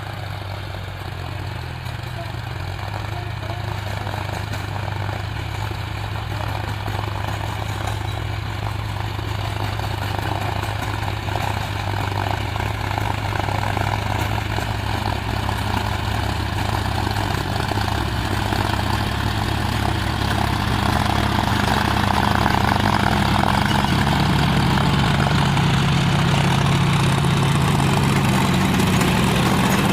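John Deere 5050 D tractor's three-cylinder diesel engine running steadily, growing gradually louder. A second, higher engine note joins about two-thirds of the way through.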